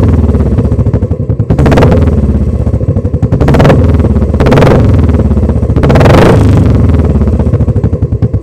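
Royal Enfield Classic 350's single-cylinder engine running loudly through its exhaust, with a steady low thumping idle and the throttle blipped four times.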